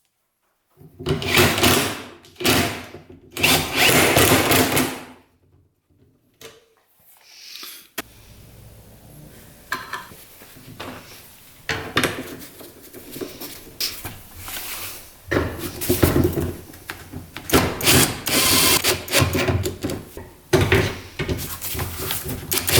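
Power drill/driver running screws into plastic in a series of short bursts, with handling noise between them.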